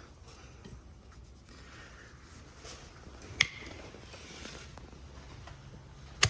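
A farrier's hoof knife paring hard, dry hoof horn, making a soft steady scraping. Two sharp clicks cut through it, one about three and a half seconds in and a louder one near the end.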